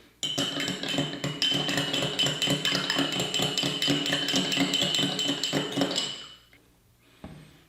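A metal spoon stirring instant coffee into hot water in a mug, clinking rapidly against the sides with a ringing tone for about six seconds, then stopping.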